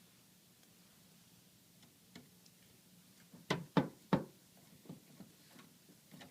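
A series of sharp knocks and clicks from hands handling the ticket printer, starting about two seconds in, with three louder knocks in quick succession around the middle and fainter ones after.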